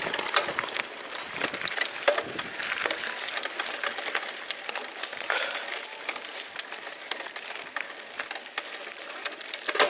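Mountain bike rolling down a rough dirt trail: a steady crunch and hiss of tyres on loose ground with frequent irregular rattling clicks from the bike.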